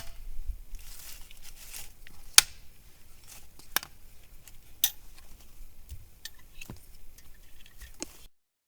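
Scattered sharp clicks and snaps, about six spread over several seconds, against a faint background. The sound cuts off suddenly near the end.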